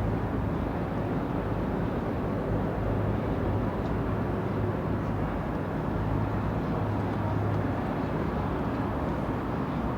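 Steady city street ambience: a continuous low rumble of traffic with a low hum underneath, unchanging throughout.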